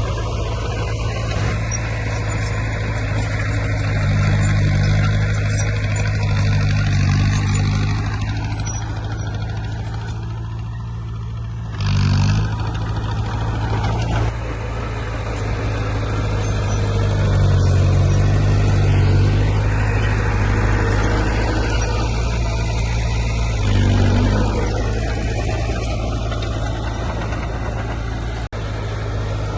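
Heavy diesel engine of earthmoving machinery running under load, its note rising and swelling several times as it works harder.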